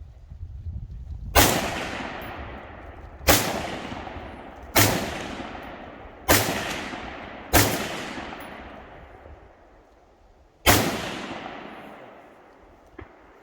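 Six rifle shots fired at an uneven pace, five in about six seconds and a sixth after a pause of about three seconds, each followed by a long echo that fades away. A small click near the end.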